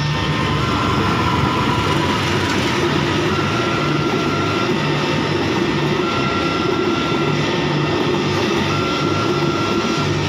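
Passenger train passing over a road level crossing, with a steady rumble and wheel noise from the coaches. Over it, the crossing's warning signal sounds in a repeating on-off tone about every two and a half seconds.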